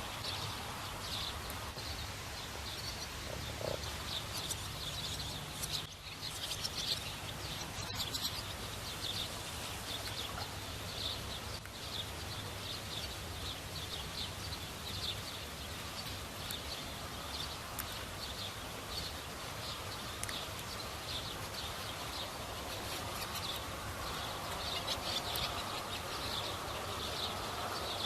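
A chorus of small animals, such as insects or frogs, giving high-pitched chirps about once a second over a low, steady rumble.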